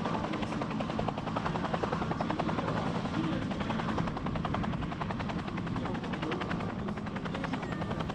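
Helicopter running with a steady, rapid chop of the rotor blades over a low engine hum.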